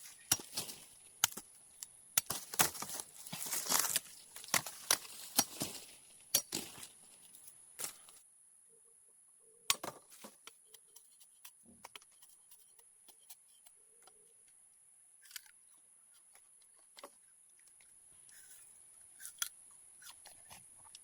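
Quick clicks, snaps and rustles, dense and loud for the first eight seconds, then only scattered single clicks.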